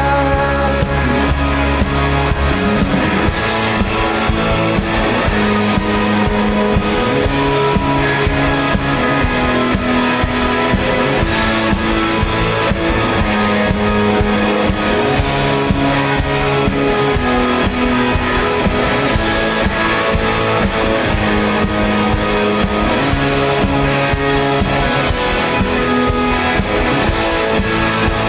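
Live rock band playing an instrumental passage: electric guitars over bass and drum kit, with the chords changing every second or two and no vocals.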